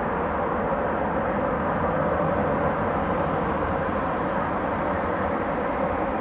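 Jet airliner engines running steadily, with strong wind rumbling on the microphone.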